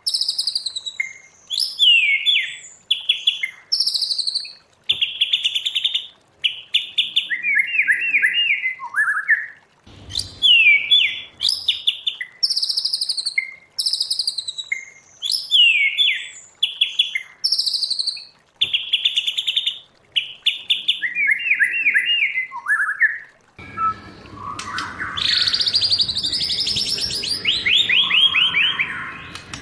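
White-rumped shama singing: a loud phrase of clear whistled notes and fast descending trills, sung twice in near-identical form. About 24 s in, a different, denser song of rapid repeated notes starts over a steady background hiss and low hum.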